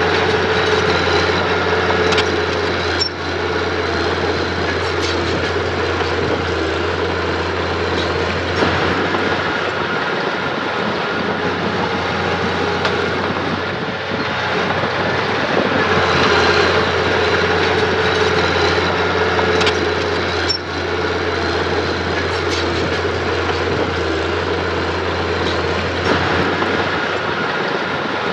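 Diesel engine of earthmoving machinery (mini bulldozer or dump truck) running steadily under work, its note swelling and easing a couple of times.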